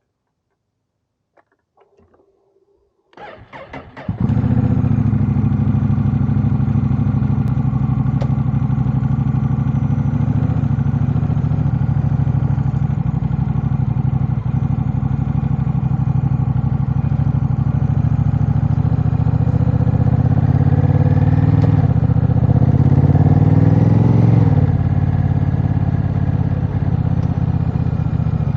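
Honda Rebel 1100's parallel-twin engine, breathing through an aftermarket Vance & Hines exhaust, is started: a brief stutter of cranking about three seconds in, then it catches and settles into a steady idle. Near the end the throttle is blipped once, the revs rising and dropping back to idle.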